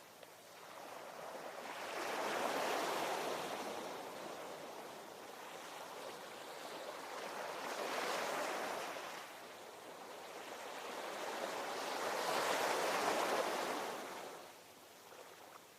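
Ocean surf: three waves rise and fall away, about five seconds apart.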